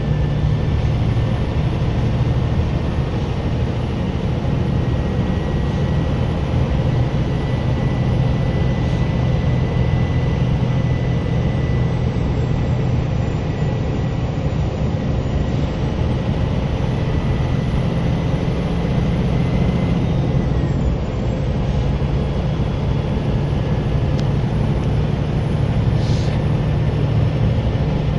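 Scania bus's diesel engine running steadily under way, a constant low drone, with a thin high turbocharger whistle that holds steady and then falls away about twenty seconds in.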